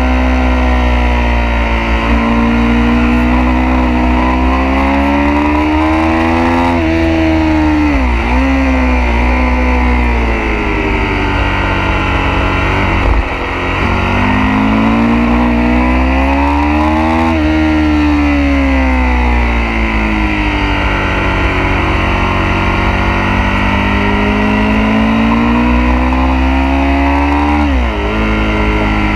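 Sport motorcycle engine on track, heard from onboard: the revs climb as it drives out of corners and drop sharply as it slows into them, about eight seconds in, again around thirteen seconds and near the end. A steady deep rumble of wind on the microphone runs underneath.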